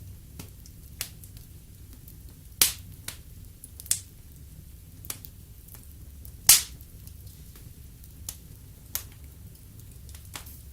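Wood fire in a fireplace crackling, with sharp pops at irregular intervals over a low steady rumble; the two loudest pops come about two and a half and six and a half seconds in.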